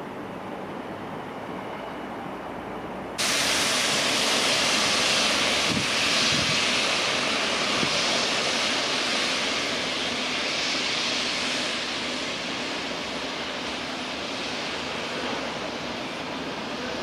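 Rail traffic at a junction: an electric multiple unit approaching quietly, then about three seconds in a sudden step up to a louder, steady hissing rush as a yellow on-track engineering vehicle runs along the line, slowly easing off.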